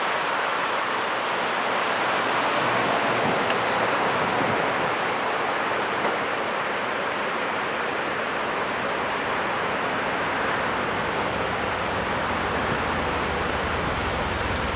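Heavy ocean surf from a big typhoon swell breaking on a sandy beach: a continuous, even rush of water noise. A low rumble comes in near the end.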